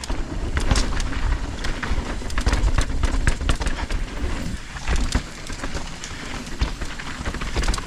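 Mountain bike clattering down a rocky downhill trail: many irregular knocks and rattles from the tyres, chain and frame over rocks, over a steady low rumble of wind and riding noise.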